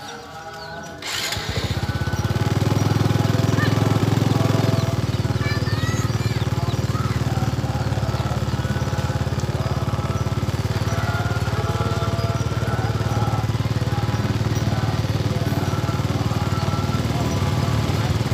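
Small motorcycle engine running steadily at low speed, coming in about a second in and staying loud throughout, with faint voices underneath.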